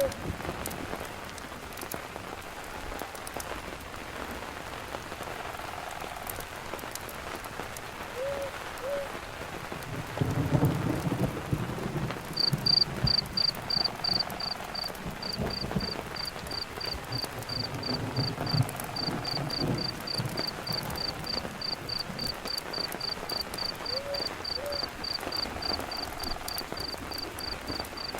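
Steady rain falling, with low rumbles about a third of the way in and again a little later. About halfway through, a cricket starts chirping in a high, even pulse of about four chirps a second and keeps on.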